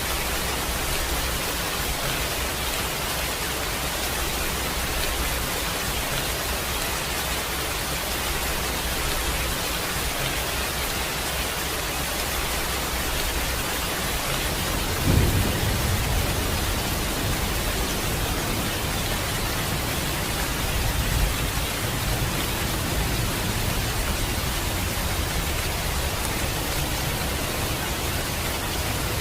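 Steady rain, an even hiss. About halfway through, a sudden clap of thunder breaks in, and a low rumble carries on after it, swelling again a few seconds later.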